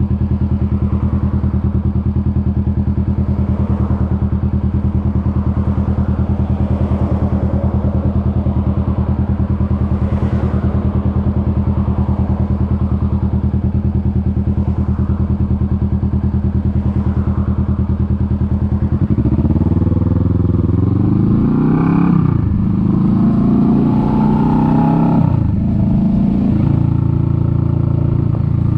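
Kawasaki Vulcan S 650's parallel-twin engine running at a steady low speed, then from about two-thirds through revving up and dropping back several times as it accelerates through the gears, settling into a steady run near the end.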